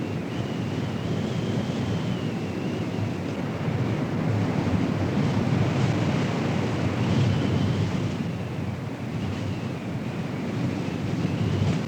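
Strong wind rushing and buffeting the microphone in a steady low roar, with a faint high tone wavering up and down through it.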